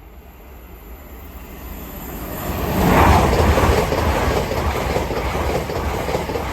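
LNER Class 800 Azuma high-speed train passing at speed. It grows louder to full strength about three seconds in, then runs on as a steady rumble and rush as the carriages go by.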